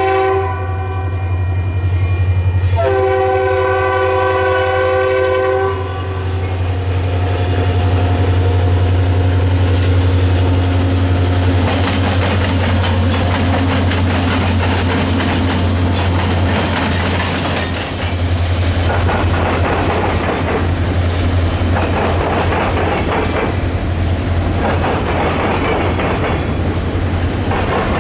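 Diesel freight locomotive passing: its multi-note air horn ends one blast just after the start and sounds another of about three seconds, over a steady deep engine rumble. After that come the rolling freight cars, with a continuous rhythmic clatter of wheels over the rail joints.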